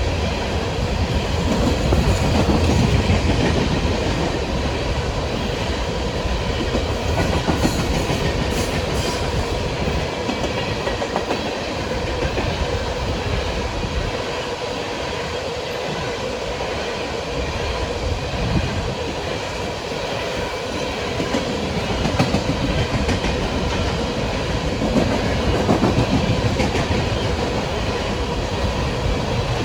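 Empty coal cars of a unit freight train rolling past, a steady loud rumble of wheels on rail with a clicking rhythm and faint steady tones.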